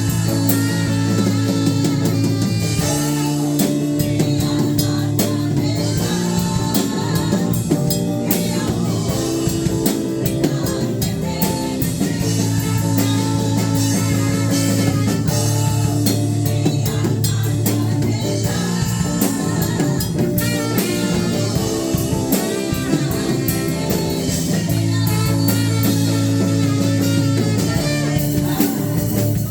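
Live worship band music: a praise song with singing, guitar and drum kit playing continuously.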